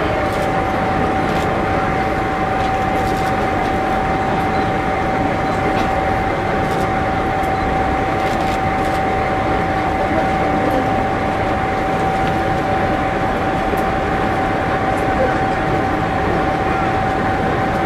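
Diesel railcar idling at the platform: a steady engine rumble with a constant high tone held throughout, over faint crowd chatter.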